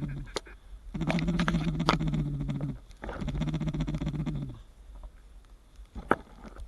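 Hunter's duck call blown in long, low, rattling bursts, three of them with short breaks between, calling to incoming ducks. A single sharp click comes about six seconds in.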